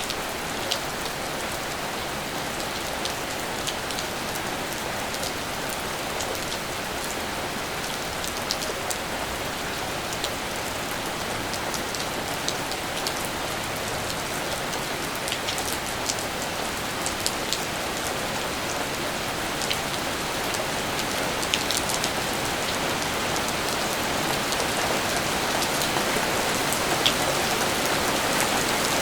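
Steady rain falling, an even hiss with scattered sharper drips of individual drops, growing slightly heavier over the last ten seconds.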